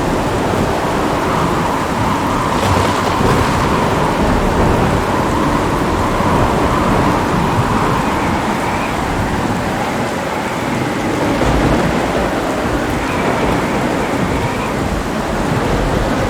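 Heavy rain falling steadily, with low rumbling thunder underneath.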